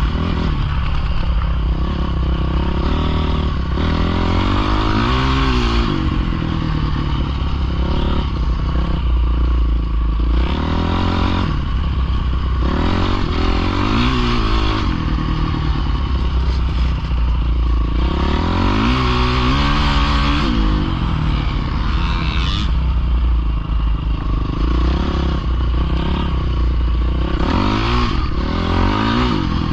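Dirt bike engines revving up and falling back again and again, a rise and fall every few seconds, over a steady heavy low rumble.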